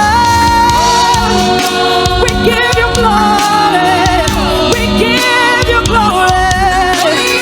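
Gospel choir singing with band accompaniment: sustained sung notes over a steady drum beat.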